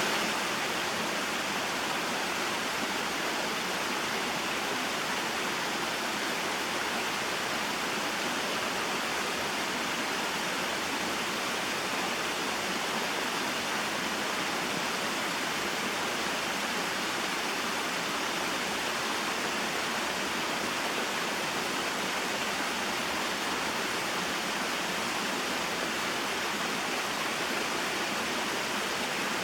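Small waterfall and stream: water falling and flowing in a steady, even rush that never breaks or changes.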